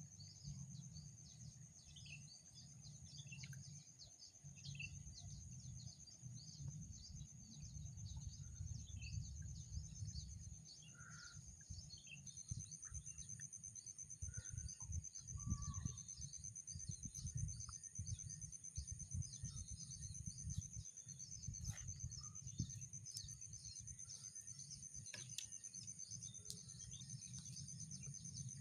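Outdoor rice-field ambience. Insects trill steadily at a high pitch, with many short bird chirps scattered through, over a low rumble.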